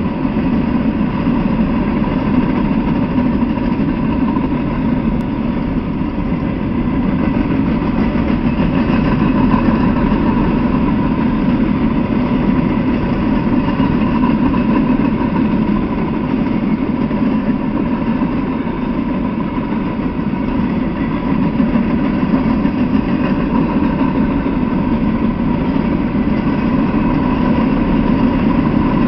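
Norfolk Southern freight train of open-top coal hopper cars rolling past at steady speed: a continuous, even rumble of steel wheels on the rails.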